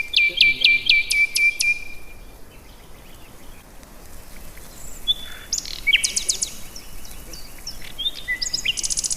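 Small birds calling: a quick run of about seven sharp, repeated chirps in the first two seconds, then further short chirping phrases a little past the middle and a fast trill near the end.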